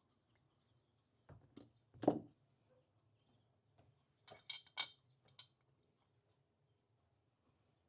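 A few light clicks and metallic clinks of small metal engine parts being handled. The sharpest clink comes almost five seconds in, after about a second of quiet at the start.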